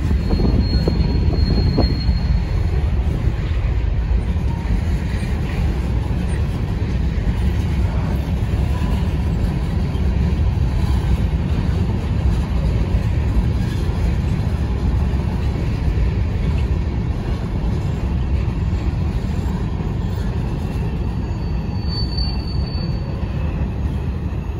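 Freight train of covered hopper cars rolling past, a steady rumble of steel wheels on rail. A high thin wheel squeal rings out briefly near the start and again near the end.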